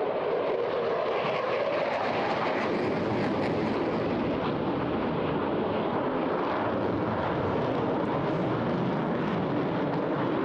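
Eurofighter Typhoon's twin EJ200 jet engines, a steady loud jet roar as the fighter makes a high-speed pass.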